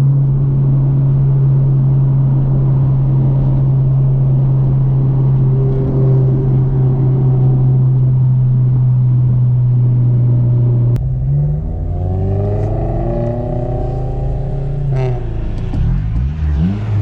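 Car engine running at a steady speed with a constant drone. About eleven seconds in the note changes, and the engine revs up for a few seconds under acceleration before dropping back, then rises and falls briefly again near the end.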